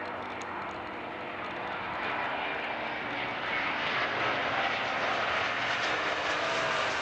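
Jet engines of an ANA Boeing 787-8 Dreamliner airliner running with a steady rushing noise that grows louder about two seconds in.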